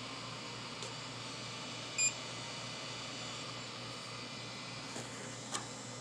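Creality CR-6 SE 3D printer's buzzer giving one short high beep about two seconds in, over the steady hiss of its running fans while it heats up for auto-levelling. A small click comes near the end.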